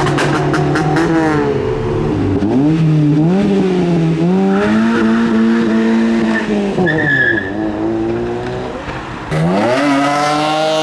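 Modified car engines revving hard, the pitch climbing and dropping several times, with a rapid run of sharp exhaust pops in the first second or so. The revs sag briefly, then jump sharply about nine seconds in.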